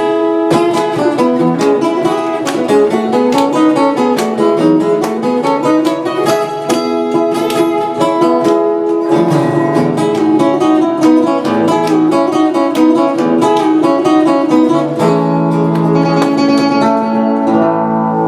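Guitars playing a fast picked instrumental melody with notes in harmony, the song's closing guitar riff with no singing.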